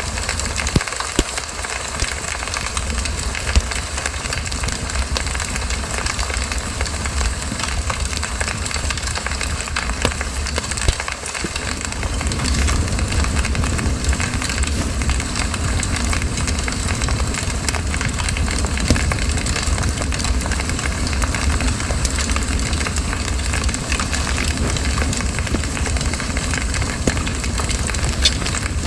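Campfire burning: wood crackling with frequent sharp pops over a steady low rumble of the flames. The fire grows a little louder about twelve seconds in.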